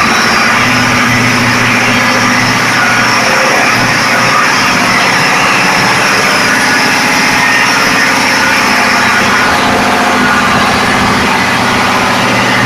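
Machinery running in a ship's engine room: a loud, steady din with an even engine hum underneath.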